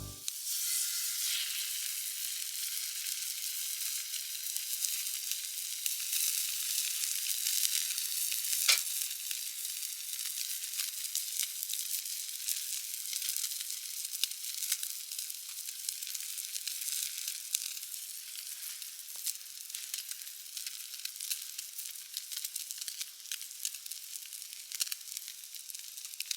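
Food sizzling and frying in a hot pan: a steady hiss with constant fine crackling of spitting oil, and one sharper pop about nine seconds in.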